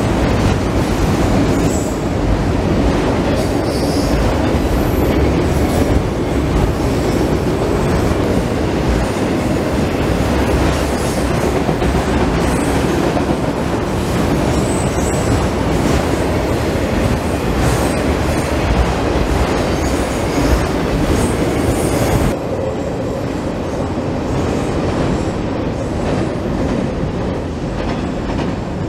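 Freight train of autorack cars rolling past, with a steady heavy rumble and rattle of steel wheels on the rails. About 22 seconds in the sound drops suddenly and grows thinner as the end of the train moves away.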